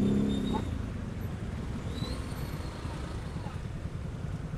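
Idling motorcycle and nearby vehicles in stopped traffic: a steady low engine rumble, with a pitched engine drone that fades out about half a second in.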